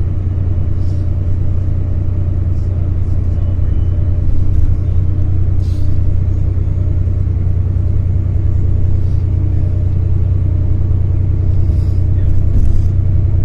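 Steady low drone of a moving coach's engine and road noise, heard from inside the passenger cabin.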